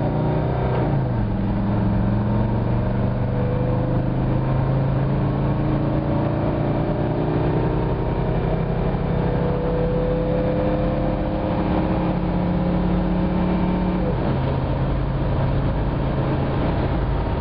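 1982 Mercedes-Benz 300D's turbocharged five-cylinder diesel engine pulling hard as the car accelerates from a stop, its note climbing steadily. About fourteen seconds in the pitch drops suddenly as the automatic transmission upshifts, then starts climbing again.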